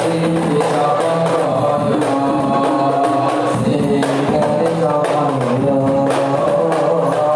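Rebana frame drums beating a steady rhythm under a group of voices singing.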